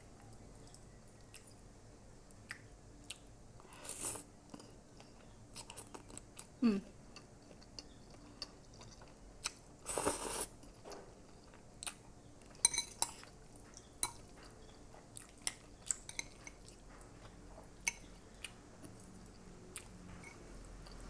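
A person chewing and eating spaghetti close to the microphone, with many small scattered clicks and two longer noisy bursts about four and ten seconds in.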